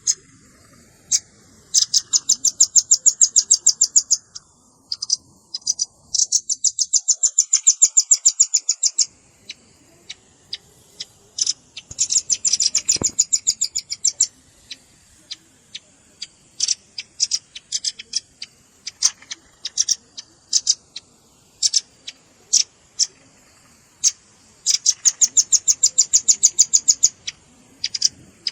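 Velvet-fronted nuthatch (red-billed rambatan) calling: four rapid trills of sharp, high notes, each two to three seconds long, with scattered single chips between them.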